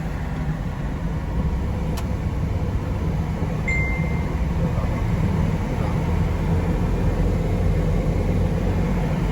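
Steady low rumble of a moving road vehicle, engine and road noise, with a brief high beep about four seconds in.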